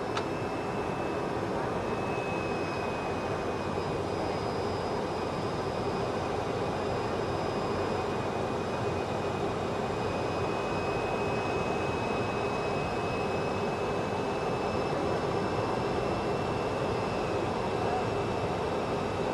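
Steady flight-deck noise of a Boeing 737-200 in flight: an even rush of airflow and engine noise, with a thin high whine held steady over it.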